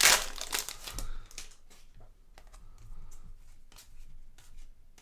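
Trading-card pack wrapper crinkling loudly for about the first second and a half, then quieter light ticks and rustles of cards being handled and slid one by one.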